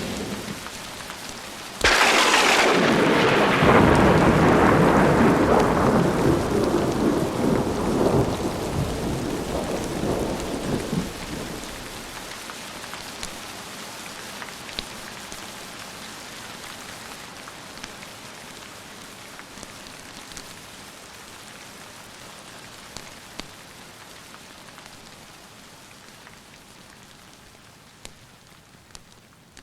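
A thunderclap cracks suddenly about two seconds in and rolls on as a rumble that dies away over some ten seconds. Steady rain falls throughout and grows gradually fainter afterwards.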